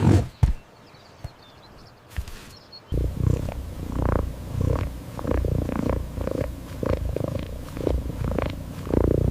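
An animal's low, pulsing rumble, like a purr or growl, starting about three seconds in.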